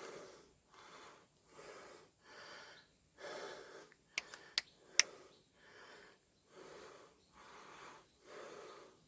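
A man breathing hard and panting in and out about once every 0.8 s, out of breath from climbing steep stone steps. Three sharp clicks come quickly one after another about four to five seconds in.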